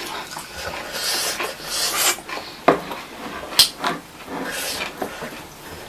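Close-miked chewing and mouth sounds, with chopsticks scraping and tapping on a ceramic plate; two sharp clicks come in the middle.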